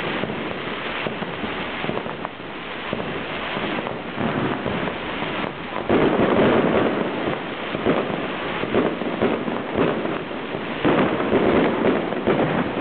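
Fireworks display: a dense, continuous run of crackling pops and bangs, growing louder about six seconds in and again near the end.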